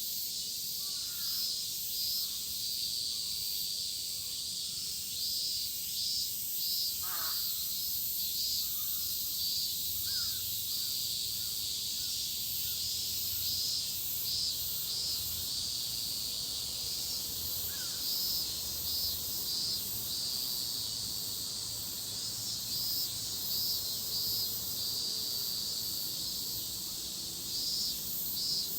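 Chorus of cicadas shrilling steadily, with a pulsing rhythm in the mix. A few short falling bird calls come through in the first half.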